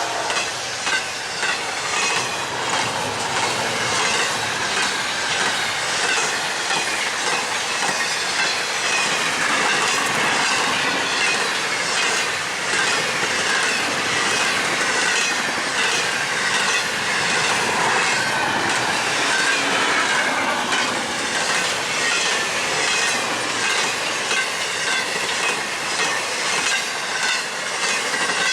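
Freight train running past at speed, its wheels clicking over the rail joints in a steady rapid rhythm. High ringing tones from the wheels slide slowly downward.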